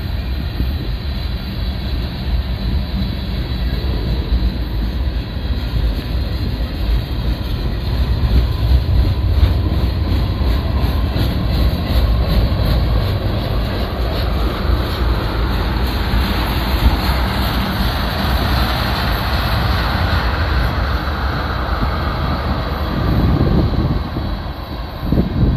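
Freight cars of a long manifest train rolling past at close range: a steady rumble of steel wheels on rail, with a run of rapid clicks in the middle and a rising hiss of wheel noise in the second half.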